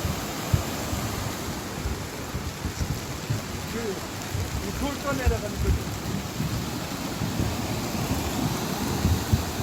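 Steady rush of heavy rain and a swollen mountain stream running down the valley, with irregular low thumps.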